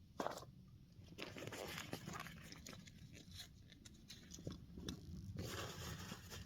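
Plastic bags and food containers rustling and crinkling as they are handled. There are scattered light clicks and knocks, with a sharp tick just after the start and a denser rustle near the end.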